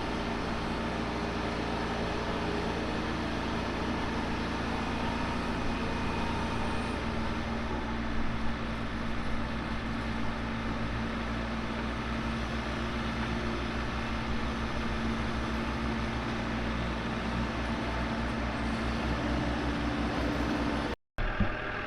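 Diesel engine of an excavator running steadily, its pitch shifting slightly about seven seconds in; the sound cuts off abruptly near the end.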